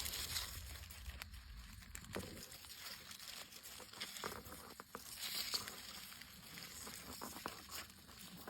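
Rustling of leaves and undergrowth, with scattered small cracks and snaps, while someone forages on foot for milk-cap mushrooms.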